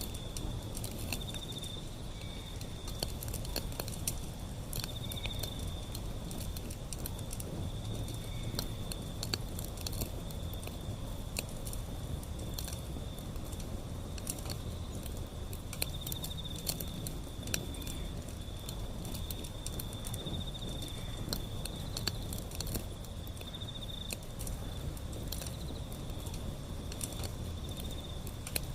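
Wood fire burning with a low rumble and frequent sharp crackles and pops. A high insect trill comes and goes throughout.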